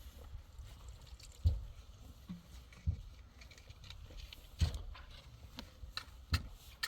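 A series of about six short, sharp thumps at irregular intervals.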